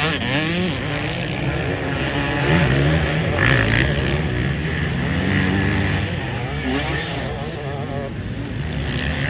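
Motocross bike engines revving, their pitch rising and falling over and over as the throttle is worked.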